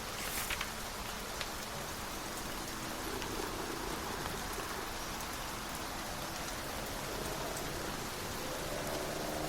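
Steady rain falling, an even hiss, with a brief crackle about half a second in. A faint low hum of steady tones comes in partway through and swells near the end.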